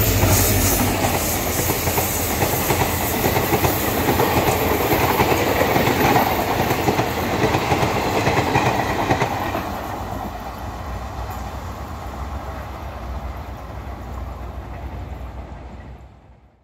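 Diesel-hauled passenger train's coaches passing close by, wheels clattering over the rail joints. The sound fades after about ten seconds as the train draws away, then cuts off suddenly near the end.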